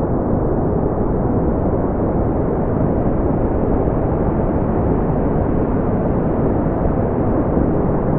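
Brown noise: a steady, deep, even rumble of noise with no tones or events, strongest in the low end and rolling off well before the highs.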